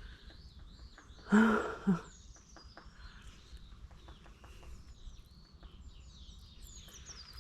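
Small songbirds chirping and calling in the trees, with a brief human vocal sound about a second and a half in.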